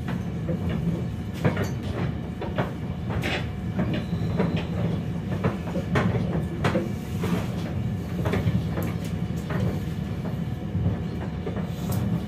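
Inside an RA2 railbus car running on the line: a steady low rumble with irregular clicks and knocks of the wheels over rail joints.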